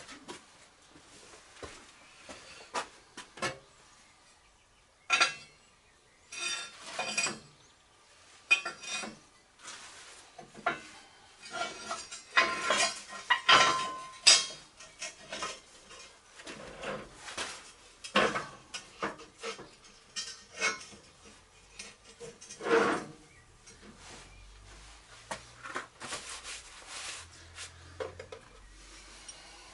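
Metal tools and steel parts clinking and knocking as they are picked up and set down on a workbench, in irregular bursts, with a louder ringing clatter about 12 to 14 seconds in.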